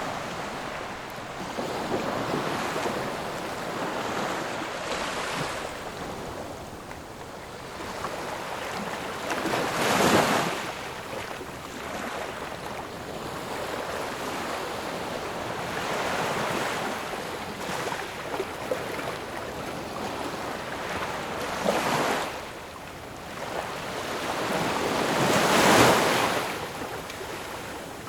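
Ocean waves breaking and washing ashore: a continuous rushing surf with a few larger waves that swell and crash, the loudest near the end.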